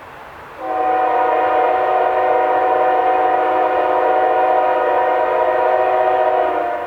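Diesel locomotive air horn sounding one long, steady blast of several notes together, starting about half a second in and cutting back near the end, over the low rumble of the approaching train.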